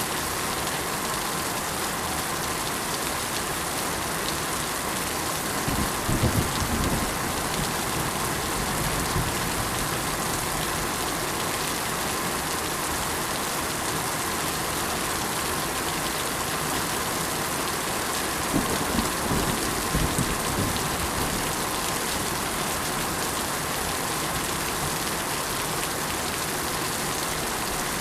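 Steady rain falling, an even hiss of drops. Two brief low rumbles rise out of it, about six seconds in and again around nineteen to twenty seconds.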